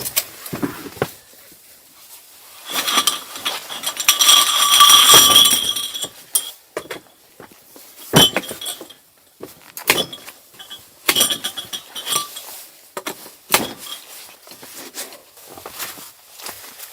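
Metal objects clinking and rattling as they are handled. About three seconds in, one struck piece rings for a few seconds, and shorter ringing knocks follow.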